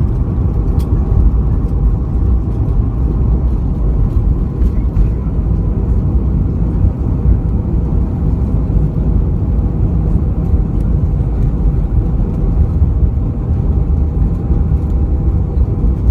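Steady low rumble inside the cabin of an Airbus A320, with a few faint steady tones above it and occasional faint clicks.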